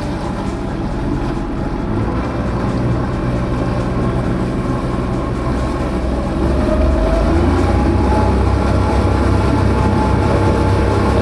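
An engine running steadily, getting louder and rising in pitch about six and a half seconds in.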